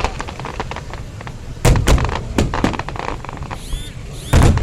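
Aerial fireworks going off: a series of loud bangs with crackling, the biggest about a second and a half in and again near the end, with a short high whistle gliding just before the last bang.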